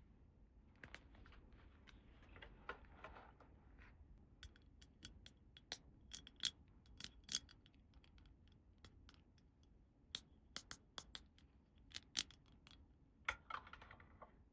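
Small plastic toy playset pieces being handled and set down: scattered sharp clicks and taps, with soft rustling of packaging about a second in and again near the end.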